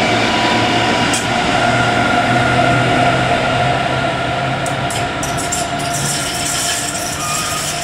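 DB Class 101 electric locomotive at the rear of an InterCity train, moving away with its coaches. Steady electric drive tones ride over wheel and rail noise and fade slowly as it recedes, with a few sharp clicks past the middle.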